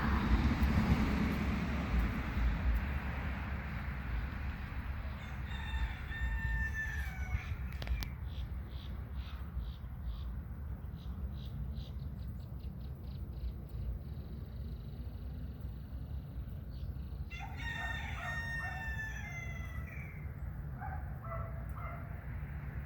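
A rooster crowing twice, each crow a long call of about two and a half seconds, followed by a few short notes, over a steady low rumble.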